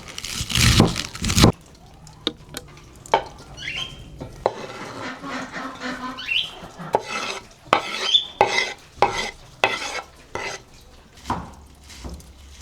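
Cooking with utensils: a few loud rough strokes in the first second and a half, then a utensil stirring, clinking and scraping in a pot or pan, with a couple of brief squeaks.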